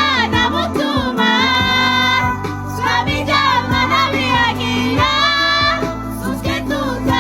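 Romani love song: a singer's voice with wavering, drawn-out notes over a backing band with a steady bass line and beat.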